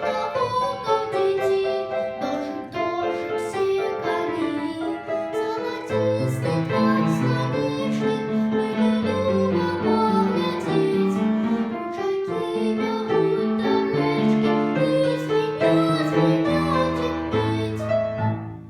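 Piano music: a simple melody in level, stepped notes, with a lower bass part joining about six seconds in; the last notes die away near the end.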